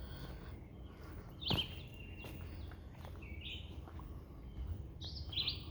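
Wild birds chirping in woodland, a few short high calls scattered through, over a low outdoor rumble, with a single thump about a second and a half in.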